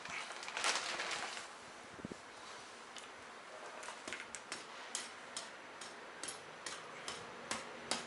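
Soil being stirred and mixed by hand: a soft scraping rush in the first second or so, then a run of light, irregular clicks and taps, about three a second.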